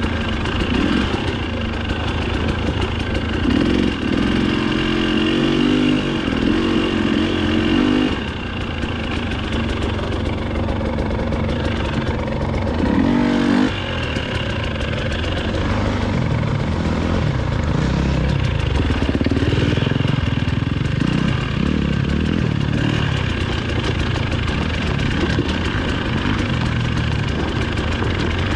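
Dirt bike engine under the rider, revving up and easing off over and over at trail pace. The revs are held high from about 3 to 8 seconds in, then cut off suddenly, with a short blip of throttle about 13 seconds in.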